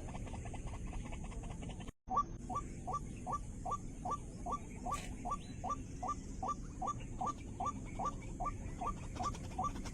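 White-breasted waterhen calls: for the first two seconds a fast, dense pulsing chatter, then after a brief drop-out a steady run of short 'kook' notes, about three a second.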